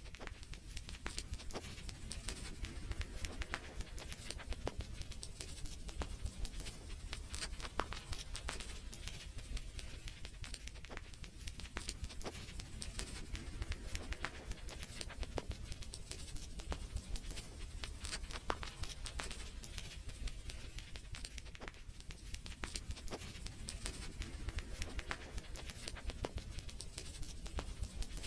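Wood fire crackling: a dense, irregular run of small pops and snaps over a low steady rumble.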